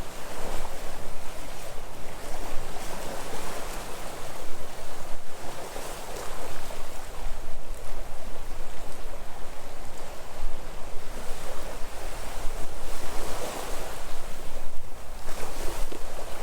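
Sea waves washing in and drawing back, swelling and easing every few seconds, with a steady low rumble of wind on the microphone underneath.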